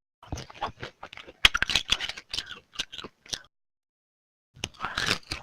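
Close-up, noisy eating: wet chewing with smacking clicks and crunches coming irregularly, breaking off for about a second before starting again.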